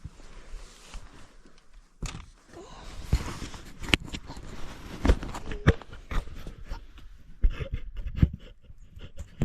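Irregular knocks and clinks over rustling, about half a dozen sharper knocks from about three seconds in: handling noise from hands-on work with tools and gear.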